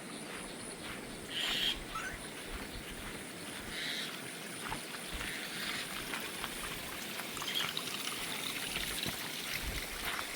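Steady trickle of running water, with two short high calls about one and a half and four seconds in.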